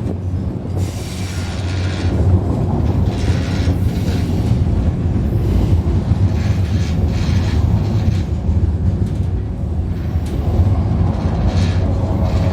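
Railway bridge droning as a train passes overhead, heard from beneath the bridge: a steady low hum set up by the vibration of the structure, with irregular metallic hiss and screech from the wheels on the rails over it.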